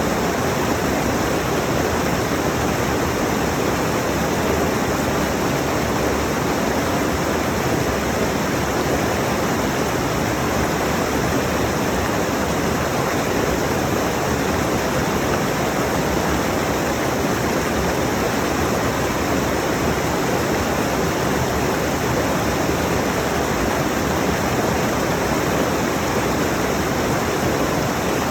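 Rushing mountain stream: water pouring over rocks in a loud, steady rush.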